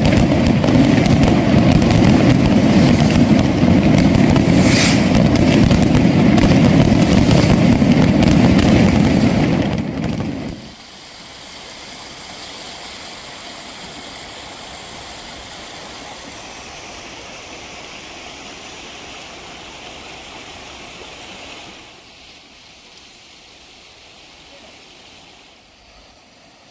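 A loud, continuous rattle of a dense fireworks barrage that stops abruptly about ten seconds in. It gives way to the steady, softer rush of a shallow river running over rocks, which drops to quieter outdoor background about eight seconds before the end.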